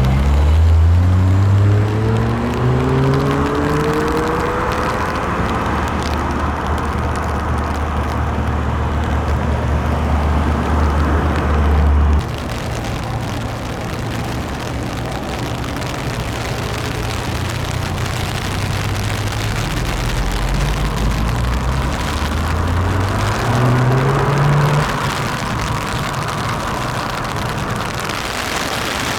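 Car engines revving and accelerating. One engine climbs in pitch over the first few seconds under a steady low engine sound that cuts off abruptly about 12 seconds in. A second engine climbs in pitch again around 22 to 25 seconds.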